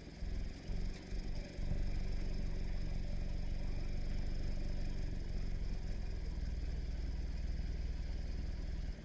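A car's engine running with a steady low rumble, faltering briefly in the first two seconds.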